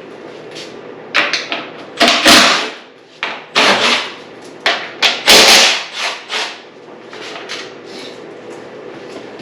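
Hand tools and bolts being worked on a dirt bike's subframe: a run of short scrapes and clunks of metal for the first two-thirds, then only a low steady background.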